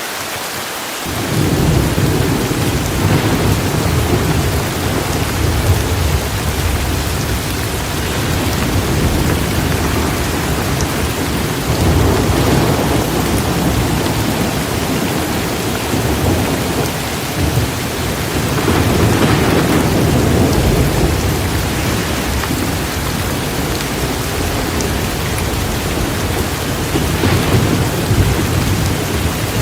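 Heavy rain pouring steadily, with thunder rumbling low underneath; the rumble comes in about a second in and swells several times.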